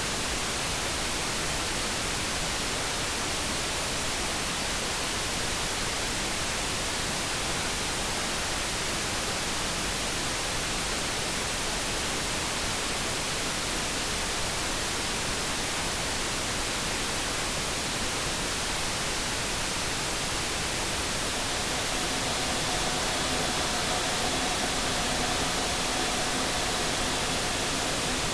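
Steady light brown noise, a smooth even hiss. About two-thirds of the way through, a faint hum of a few steady tones, the subtle electric kettle hum, comes in under it.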